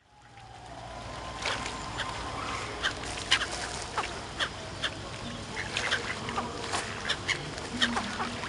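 A flock of birds calling, with many short, sharp calls coming thick and irregular over a steady background hubbub, fading in at the start.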